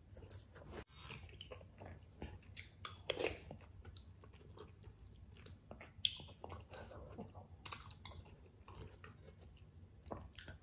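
Close-up chewing of a mouthful of spicy seafood ramen, heard as many short mouth clicks, with noodles taken in about six seconds in.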